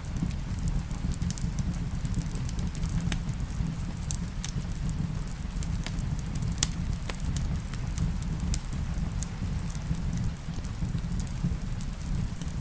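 Wood fire crackling, with irregular sharp pops over a low steady rumble, and a soft even hiss of rain behind it.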